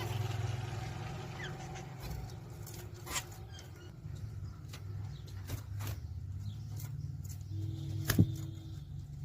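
Caged finches moving about, with scattered sharp clicks and taps and an occasional faint chirp, over a steady low hum. The loudest click comes a little after eight seconds.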